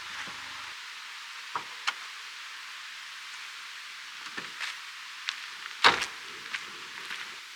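Scattered short knocks and clicks, the loudest about six seconds in, over a steady high hiss.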